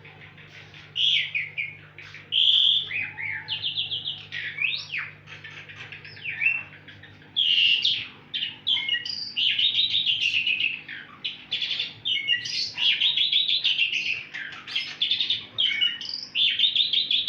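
Caged parrots chattering: a fast, nearly unbroken run of short high chirps and squeaky calls that starts about a second in.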